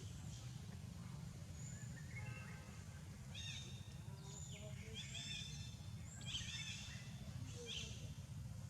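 A run of short, high-pitched chirping animal calls, several in quick succession, over a steady low outdoor rumble.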